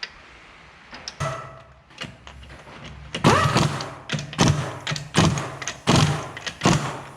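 Rear wheel going back on, with its lug nuts run down by a power wrench in a string of short bursts, some rising in pitch, and knocks from the wheel and nuts.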